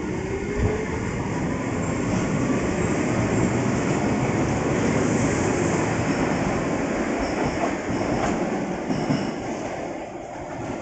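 Keihan 600 series two-car tram-type train pulling out of the station past the listener: a motor whine rising in pitch as it gathers speed over wheels clattering on the rails, swelling and then fading as the train draws away.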